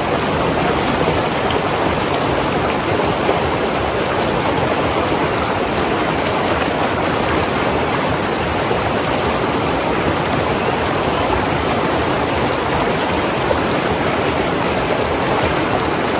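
Mountain river rushing and gurgling over rocks in a steady, unbroken flow.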